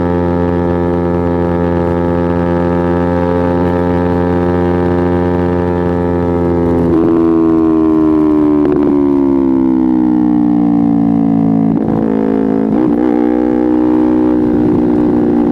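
Kawasaki Ninja 250R parallel-twin engine and exhaust under way, holding steady revs. About halfway through a few quick interruptions break the note as the revs slowly fall, and then it settles at a steady pitch again.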